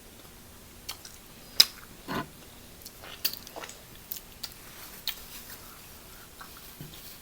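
Close-miked eating sounds: chewing and mouth smacks with scattered sharp clicks. The loudest click comes about a second and a half in, followed just after by a short, lower wet sound.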